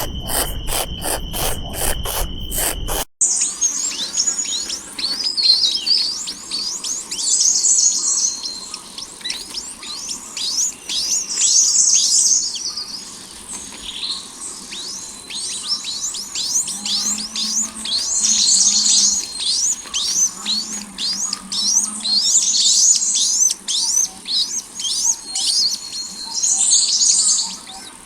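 For about three seconds, a rapid, regular ticking with a steady high tone, which cuts off sharply. After that, birds chirping almost without pause in quick, high, down-sweeping calls, loudest in repeated busy spells.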